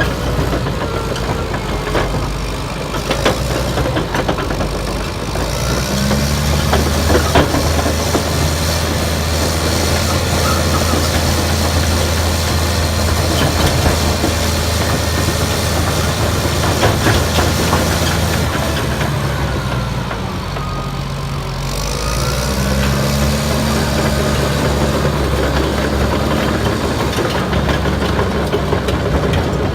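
Caterpillar D6T XL crawler dozer's diesel engine running, with scattered clanks. It rises in revs about six seconds in, eases off briefly near twenty seconds, and rises again just after.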